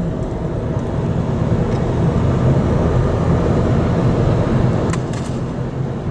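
Steady low rumble of a car being driven, engine and road noise together, with a couple of faint ticks about five seconds in.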